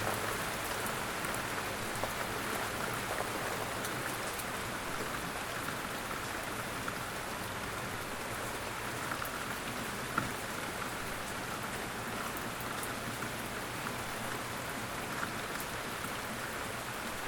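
Light rain falling steadily in woodland, with scattered single drops ticking louder, one a little sharper about ten seconds in.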